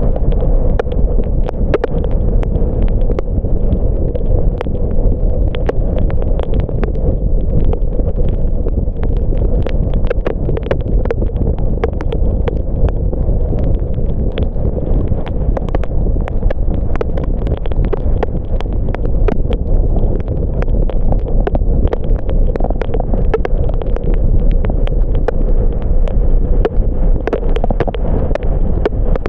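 A car driving in the rain: a steady low rumble of road and wind noise, with many irregular ticks of raindrops hitting.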